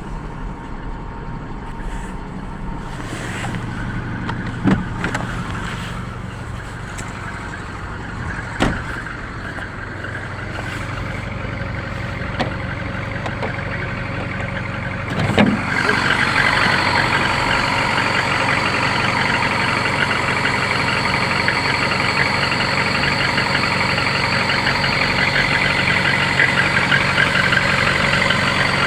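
A VAZ (Lada) car engine running steadily, with a few short knocks. About halfway through its sound steps up louder and harsher and stays there.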